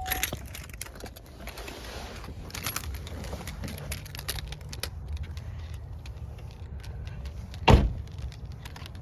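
A car's engine runs with a low steady rumble, under light clicks and rattles, and there is one loud thump near the end.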